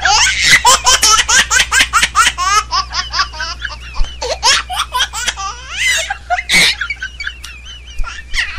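High-pitched laughter in a fast run of short bursts, several a second, with a louder burst about six and a half seconds in.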